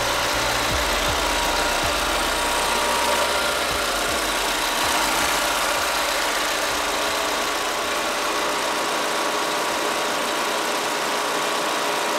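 Chevrolet Tornado pickup's four-cylinder engine idling steadily, heard with the hood open.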